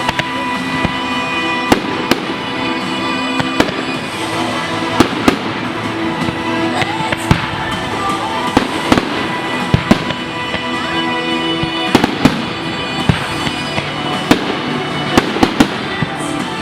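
Fireworks display: frequent sharp bangs and crackles of bursting shells, scattered irregularly, over music playing throughout.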